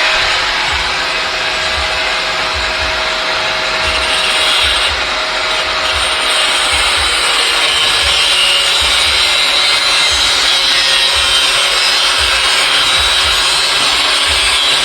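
Angle grinder running against steel body metal, a continuous grinding rasp with a faint motor whine that sags a little under load.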